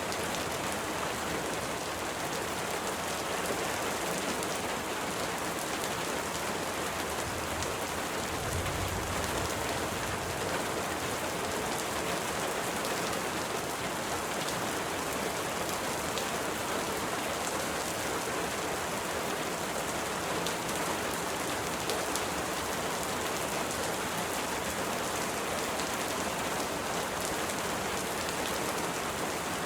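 Steady rain, an even hiss of drops, with a brief low rumble about eight seconds in.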